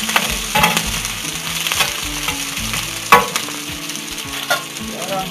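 Chopped onion, garlic and chiles sizzling in hot oil in a clay cazuela, with a metal spatula scraping and clicking against the pot as they are stirred. A sharper knock comes about three seconds in.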